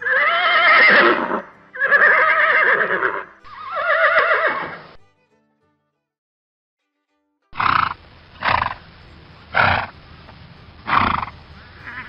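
Horse whinnying three times in a row, each a loud, quavering call of a second or more. After a short silence come five short, breathy snorts about a second apart.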